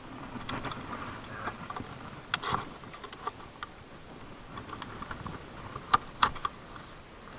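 Irregular light clicks and taps, with a few sharper knocks about two and a half seconds in and again near six seconds in.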